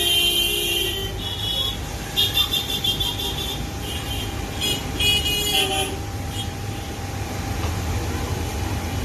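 Vehicle horns honking in several short, high-pitched bursts over a low, steady rumble of road traffic.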